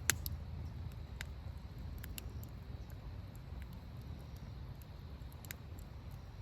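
Wood fire crackling in a fire pit: irregular sharp pops over a low rumble, with one louder pop right at the start.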